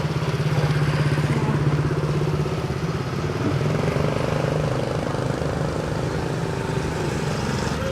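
A motor vehicle's engine running steadily nearby, with a low, fast-pulsing hum that is loudest in the first couple of seconds and then eases off a little.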